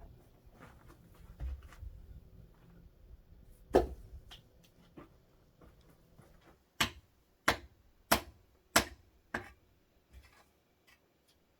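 Sharp knocks in a small room: one loud knock about four seconds in, then five evenly spaced strikes about two-thirds of a second apart, fading, with a few faint taps after.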